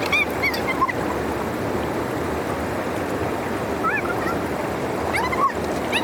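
Steady rush of water flowing through a dam drainage, with a few short, high animal calls over it: once in the first second, again about four seconds in and once more near the end.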